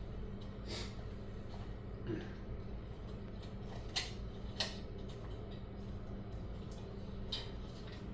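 A steady low hum with several short, sharp clicks and knocks scattered through it.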